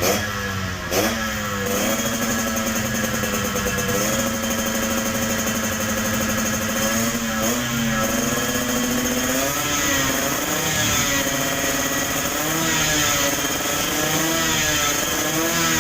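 Tornado GX two-stroke motorcycle engine running: two sharp throttle blips in the first second or two, then a steady high idle, then several short blips of revs that rise and fall in the second half.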